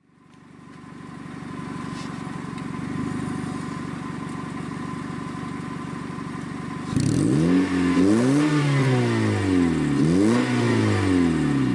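Honda Civic 1.7L four-cylinder engine on its stock exhaust, idling steadily, then revved twice about seven seconds in, the pitch rising and falling with each rev.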